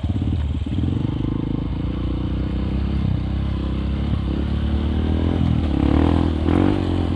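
Honda CRF150L single-cylinder engine with an aftermarket Nofifumi Torc exhaust running at low speed, the note rising and falling with the throttle. It swells briefly about six seconds in.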